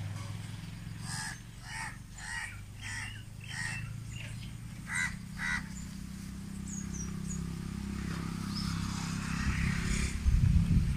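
A bird calling repeatedly, about eight short calls over four seconds, over a steady low hum. Low thumps and rustling come in near the end.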